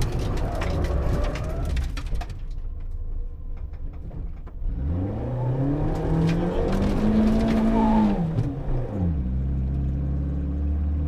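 Peugeot 205 rally car's engine heard from inside the cabin: the revs fall away about two seconds in, then climb steeply, hold high and fall again near the end. Scattered clicks and rattles of loose stones against the car run through it.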